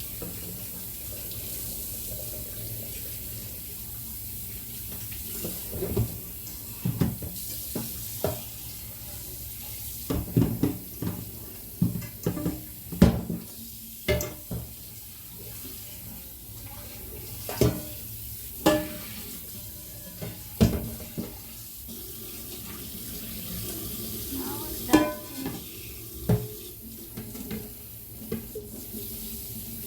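Kitchen tap running steadily into a sink, with irregular knocks and thumps as a whole chicken is handled and washed in the basin.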